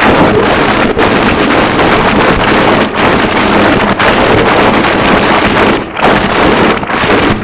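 Harsh noise wall: a loud, dense, unchanging wall of distorted static, broken by brief dropouts every second or two.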